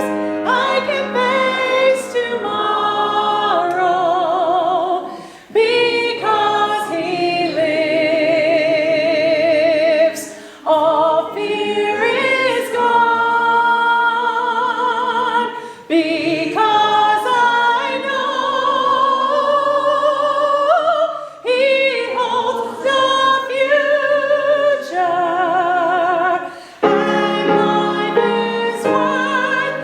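Singers performing a song with musical accompaniment. The voices carry clear vibrato in long held phrases, with short breaks between phrases every five or six seconds.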